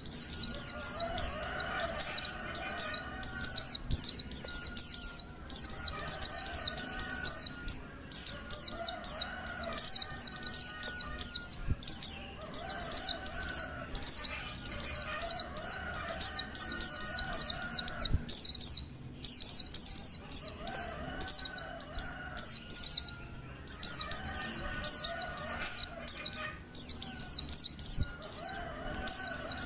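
Female white-eye (pleci) calling: rapid runs of high, thin, downward-sliding chirps in bursts of a second or two, repeated again and again with short pauses. It is the female call used to draw male white-eyes into singing.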